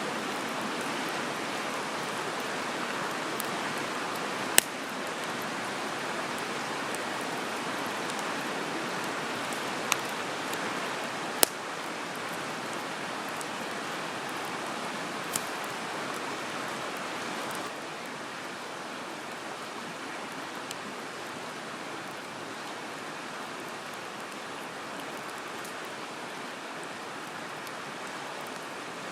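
Wood campfire giving four sharp pops of burning firewood, over a steady rush of flowing water.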